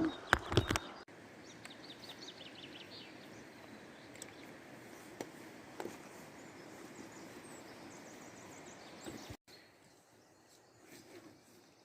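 A few sharp knocks in the first second, then steady faint outdoor background noise with a short run of bird chirps about two seconds in.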